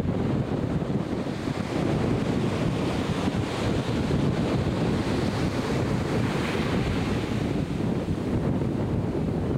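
Ocean surf washing in, with wind buffeting the microphone in a steady rush.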